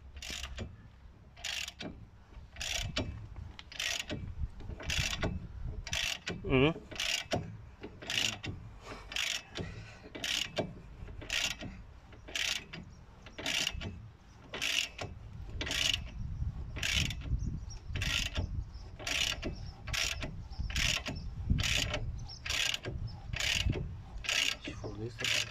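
Ratchet wrench worked in steady strokes, each stroke clicking about once every two-thirds of a second, winding a puller or press that draws the front wheel bearing out of a Ford Focus MK2's hub carrier. There is a brief creaking squeak about six and a half seconds in.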